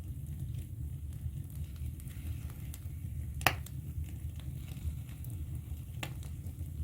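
Wood fire crackling in a fireplace: a steady low rumble with scattered small pops and one sharp, loud crack about three and a half seconds in.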